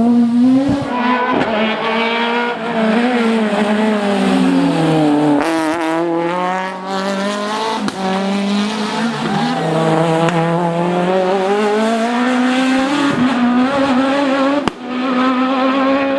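Rally car engine revving hard under load, its pitch dropping and climbing again several times as it shifts gears and lifts off.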